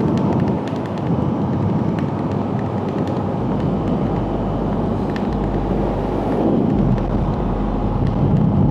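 Wind rushing over a helmet-mounted clip-on mic while riding a Honda CRF450RL dirt bike, its single-cylinder four-stroke engine running underneath the wind noise.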